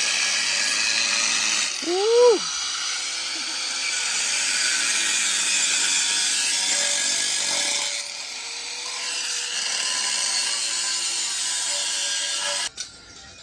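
A power tool cutting through metal exhaust pipe, a loud, harsh, steady run that eases off briefly twice and stops abruptly near the end. About two seconds in, a short tone rises and falls over it.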